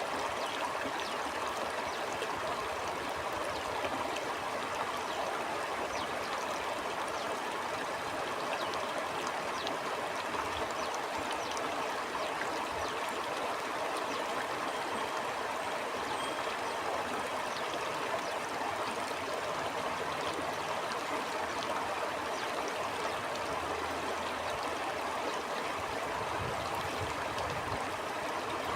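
A stream flowing steadily, water babbling and gurgling over stones with a fine splashing texture.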